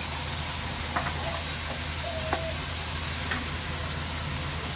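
Beef liver in a turmeric and tamarind sauce sizzling in a non-stick wok as the sauce reduces, with a steady low hum underneath. A wooden spatula stirs it and knocks against the pan three times, about one, two and three seconds in.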